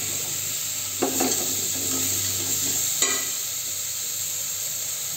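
Pumpkin chunks and garlic sizzling in hot oil in a stainless steel pot while being stirred, with a steady hiss and two clattering knocks of the utensil against the pot about one and three seconds in.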